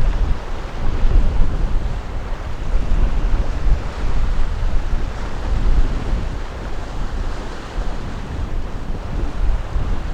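Wind buffeting the microphone: a gusty rushing noise, heaviest in the low end, rising and falling in quick gusts.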